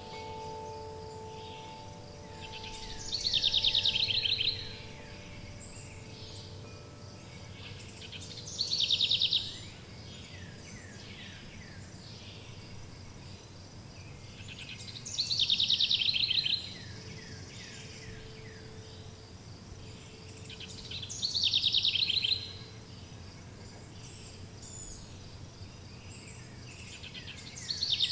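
A songbird sings a short, rapid trilled phrase about every six seconds, five times, over a soft steady background hiss. A chime's ringing tones fade away over the first few seconds and return faintly in the middle.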